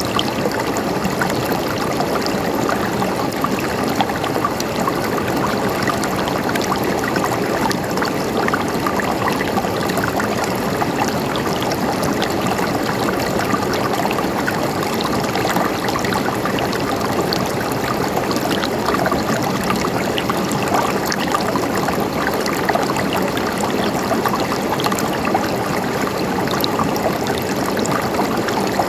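Mountain stream running over rocks: a steady babbling, splashing flow with small droplet splashes throughout.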